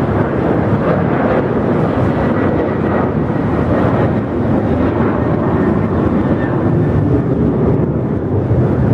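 Jet airliner engines running loud and steady, with a faint high whine in the middle.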